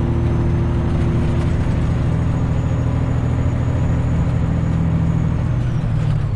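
Semi truck's diesel engine running steadily under way, heard from inside the cab, with the engine note shifting near the end.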